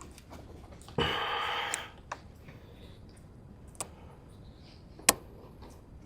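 A short scraping hiss lasting under a second, followed by three separate sharp clicks spaced a second or more apart, from parts and tools being handled while working on car wiring.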